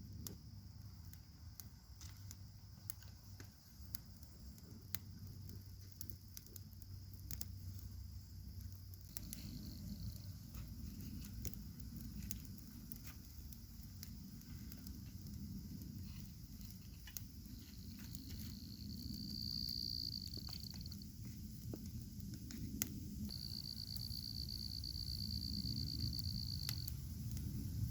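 Small wood campfire crackling, with frequent sharp snaps and pops over a low rumble. A high, even trill comes in twice in the second half.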